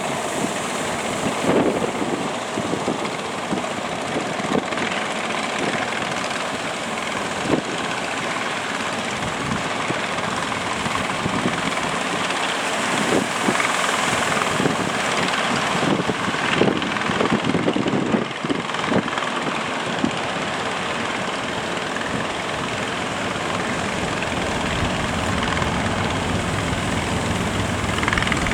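Strong wind buffeting the microphone over a steady, loud rushing noise, with irregular low thumps from the gusts and a motor-like drone underneath, such as fishing boat engines.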